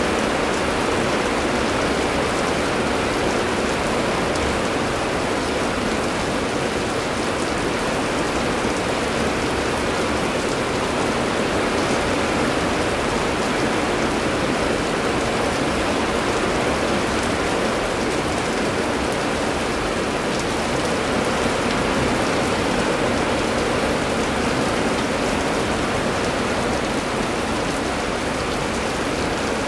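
Heavy rain falling steadily, an even hiss that neither builds nor lets up, with no thunderclaps.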